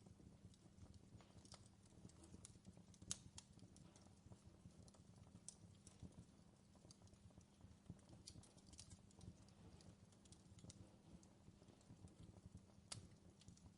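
Wood fire crackling faintly: irregular small pops and snaps over a low steady hum, with a sharper pop about three seconds in and another near the end.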